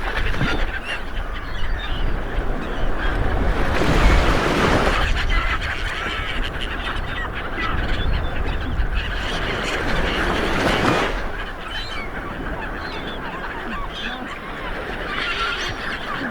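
Sea waves washing onto a shore, swelling twice, with birds calling repeatedly over the surf.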